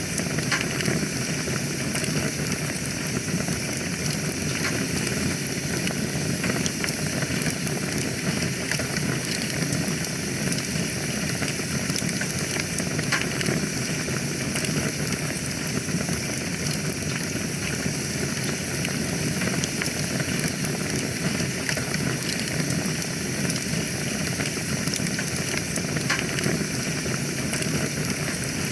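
Wood fire burning in a fireplace: a steady rushing hiss of flames with frequent small crackles and pops scattered throughout.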